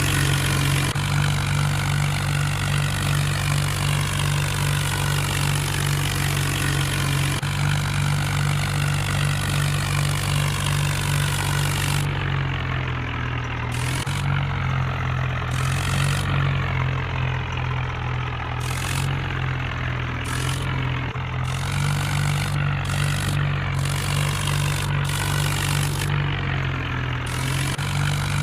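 Mahindra diesel tractor engine running steadily. Its note drops a little for a few seconds around the middle and again near the end, then comes back up.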